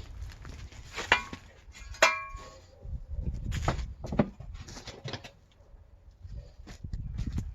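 Hard objects knocking and clinking together, with two sharp ringing clinks about one and two seconds in, then several duller knocks.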